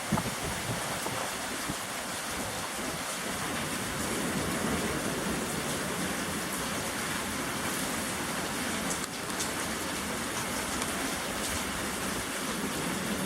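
Rain falling steadily, with a low rush of gusting wind underneath that grows a little stronger about four seconds in.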